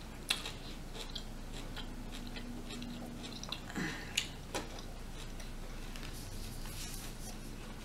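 Close-miked chewing of broccoli, with a few sharp mouth clicks at irregular moments.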